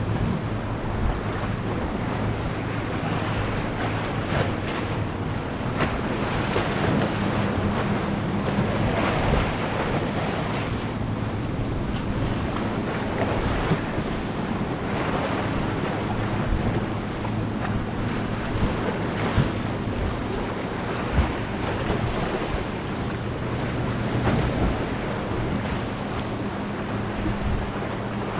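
Ocean surf washing and wind buffeting the microphone, swelling and easing in waves, with a low steady hum underneath.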